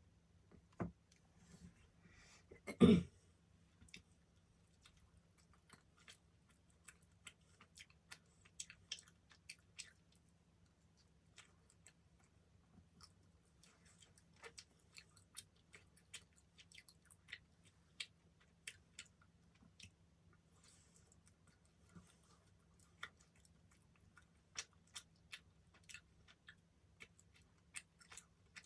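Close-miked eating: chewing with many small, scattered mouth clicks and smacks. About three seconds in there is one loud, short thump.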